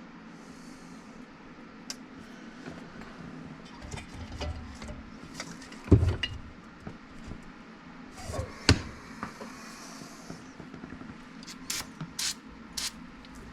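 Small metal chainsaw carburetor parts and hand tools clicking and knocking on a workbench while the carburetor is taken apart, with the loudest knock about six seconds in. There are two brief hisses, about half a second in and again about eight seconds in, over a steady low hum.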